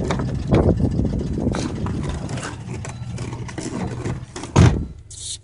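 Turbocharged five-cylinder engine of a 1996 Volvo 850R running, its sound fading gradually over the seconds. Near the end there is one loud thump, then a brief hiss.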